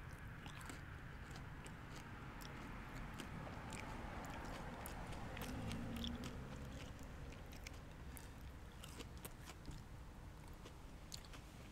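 Close-miked chewing and biting of fast food: scattered small crunches and wet mouth clicks over a low steady background hum.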